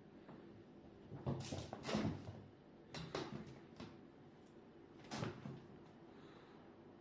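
Faint scuffling and light knocking from cats at play, in four short bunches a second or so apart.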